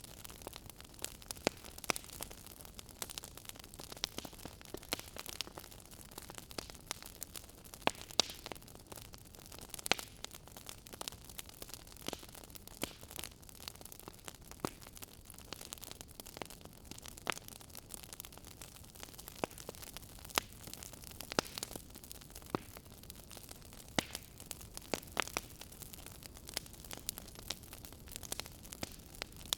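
Wood fire burning in a fireplace, with irregular sharp crackles and pops, several a second, over a soft steady hiss.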